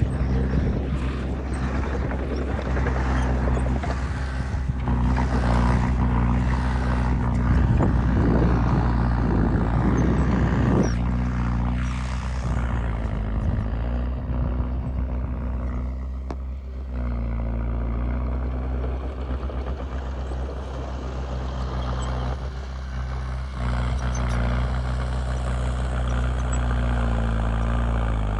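Heavy diesel engine of earthmoving machinery running steadily under load, with a denser rattling, churning noise over the first ten seconds or so that then eases off.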